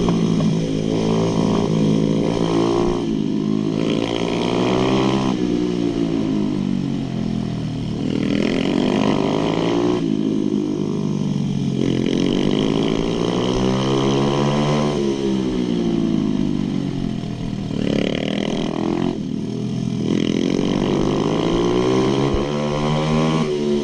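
Pit bike engine being ridden hard around a track, its pitch repeatedly climbing under throttle and dropping off again every few seconds.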